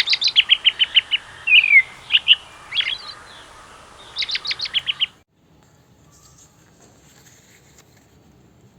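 A songbird singing: quick trills of short chirps, a downward slurred whistle, a few single notes, then another rapid trill, cutting off suddenly about five seconds in. Faint, quiet rustling follows.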